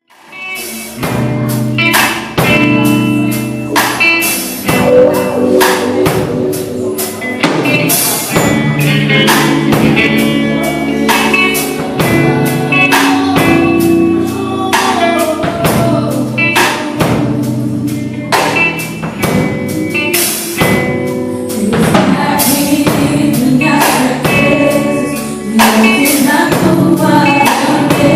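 Live gospel music from a band with a drum kit, with singing, starting abruptly and playing on steadily with regular drum and cymbal strikes.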